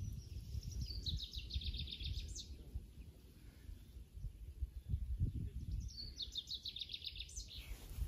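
A songbird sings the same short song twice, once at the start and again about six seconds in. Each song is a quick run of repeated high notes ending in a brief rising flourish. A low, uneven rumble runs underneath throughout.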